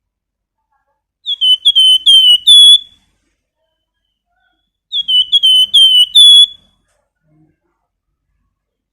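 Flamboyan songbird singing in clear whistles: two phrases, each a quick run of about six repeated down-slurred notes that grow louder, about three and a half seconds apart.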